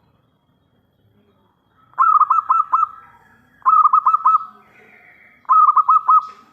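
Zebra dove (perkutut) cooing: three loud phrases of quick, clipped notes, four or five to a phrase, starting about two seconds in and about every second and a half to two seconds after.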